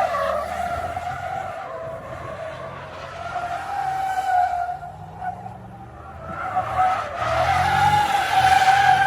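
Car tyres squealing on pavement with the engine running under them: one long, wavering squeal that fades around the middle and swells again about seven seconds in.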